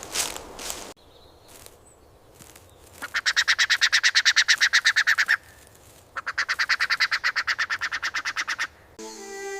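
An animal's rapid trilling call, about a dozen even pulses a second, given twice: once about three seconds in, then again after a short pause.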